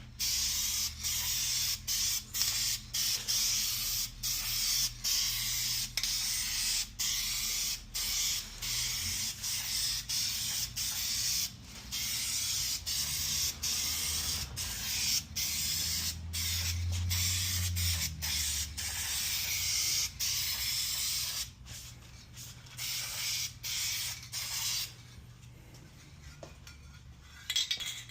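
Aerosol spray paint can hissing in long sprays with many brief breaks as the nozzle is let off. It turns to shorter spurts about 21 seconds in and stops about 25 seconds in.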